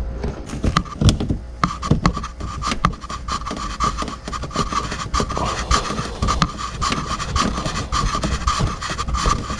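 Hands handling and twisting a plastic fog light bulb and its wiring into the housing: irregular clicks, scrapes and rubbing, over a steady high tone.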